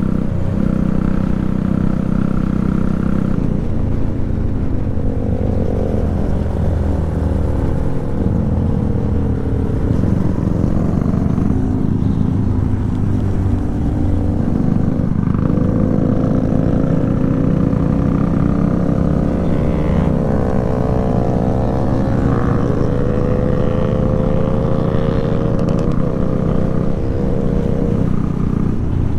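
Motorcycle engine running hard under acceleration, its pitch climbing and then dropping at each gear change, about 6 and 15 seconds in, over a low rush of wind and road noise.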